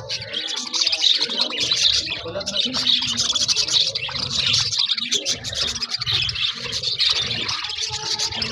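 A flock of budgerigars chattering and warbling together in a dense, continuous stream of fast chirps, with a low murmur underneath.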